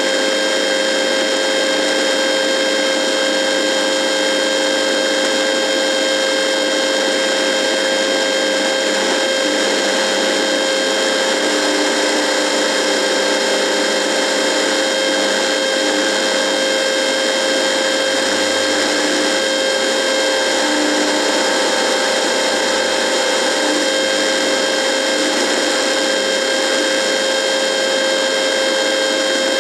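Radio buzzing: a steady hiss of static with several steady humming tones, low and high, running through it and never changing.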